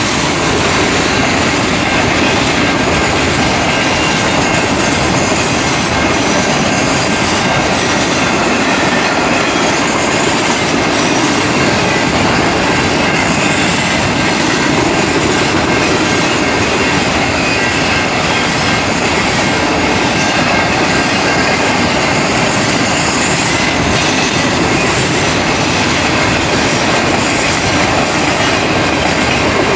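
Triple Crown RoadRailer freight train rolling steadily past at close range: continuous rumble and clatter of wheels on rail with a faint, steady high wheel squeal.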